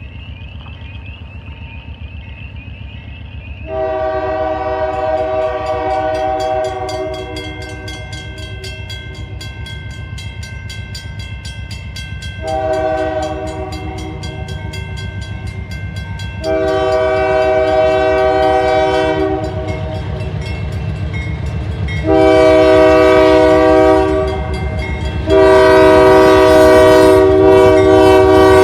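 Diesel locomotive air horn sounding a multi-note chord in five blasts, mostly long with a short one second, each louder than the one before, the last one running on. Under it is a steady low rumble of the train.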